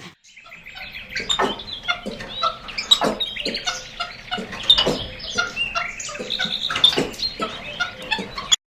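A flock of birds chirping and calling, many short overlapping calls at once, cutting off abruptly near the end.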